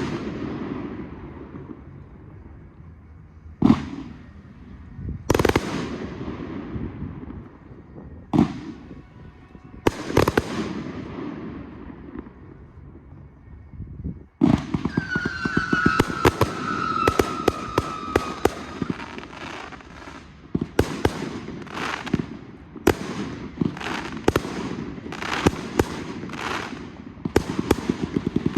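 Fireworks display: four separate loud bangs of bursting shells a couple of seconds apart, each trailing off, then from about halfway a rapid barrage of many bangs with a whistle falling in pitch, running on to the end.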